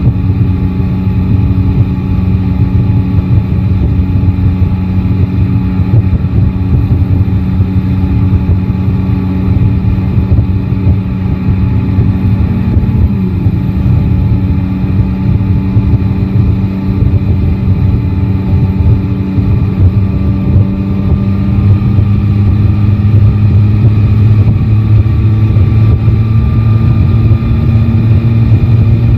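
Yamaha Tracer 9 GT's inline three-cylinder engine running at a steady pitch, with a brief small dip about halfway and getting somewhat louder in the last third.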